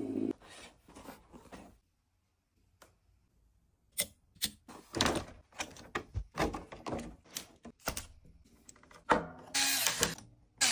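Irregular clicks, clacks and knocks of small hard parts being handled and set down, with a short quiet stretch early on and then a rapid run of sharp knocks, the loudest about nine seconds in.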